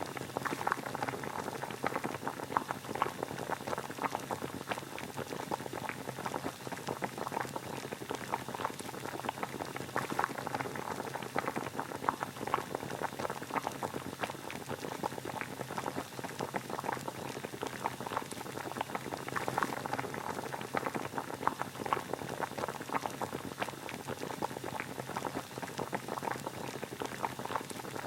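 Water boiling at a steady rolling boil, a continuous dense bubbling and popping.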